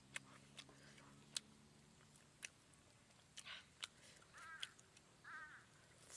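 Faint close-up mouth sounds of someone chewing grilled chicken: sharp wet clicks and smacks every second or so. Two short high-pitched calls come about four and five seconds in.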